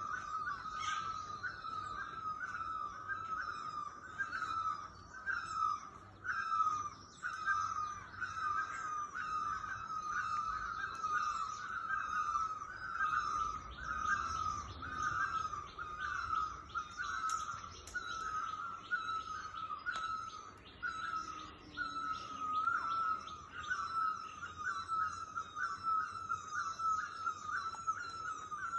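Birds singing: one bird repeats the same call over and over, about one to two a second, while other birds add fainter, higher chirps.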